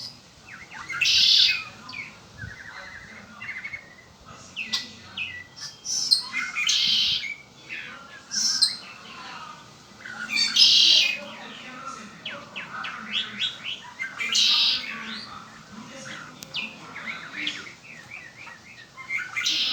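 Red-winged blackbird singing: six loud, buzzy phrases a few seconds apart, with quick chirps and rapid chattering notes between them.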